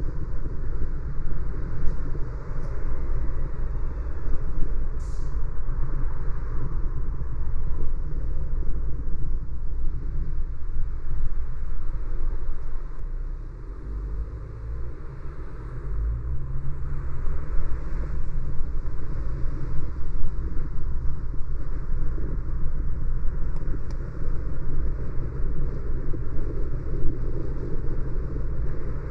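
A car driving on a city street: steady, low road and engine noise that eases for a couple of seconds about halfway through.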